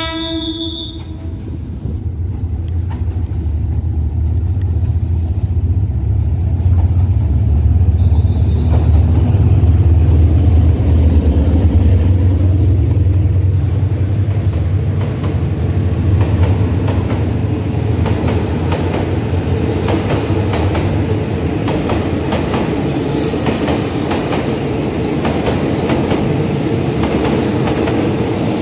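A train's horn ends about a second in. Then a train rolls slowly past with a heavy low rumble, its wheels clacking repeatedly over the rail joints: the "chik-ka-chak" of jointed track, where a small gap is left between rail lengths for the steel to expand and contract.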